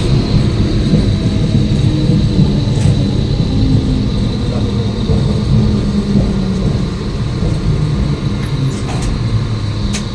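A train running along the track: a steady low rumble with a thin high whine over it, easing slightly near the end.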